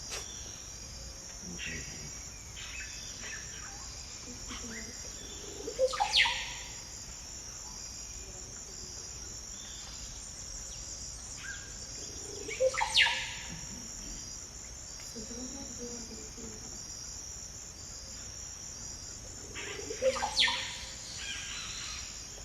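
Amazon rainforest soundscape: a steady high-pitched insect chorus, broken three times, about seven seconds apart, by a bird's loud call that sweeps steeply down in pitch.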